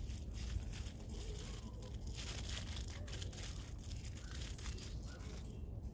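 Crinkling and rustling in repeated stretches, as of something being handled and crumpled, with a brief sharp crackle about half a second in.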